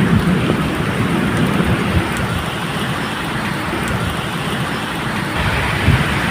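Steady medium rain falling, with a low, uneven rumble of thunder underneath.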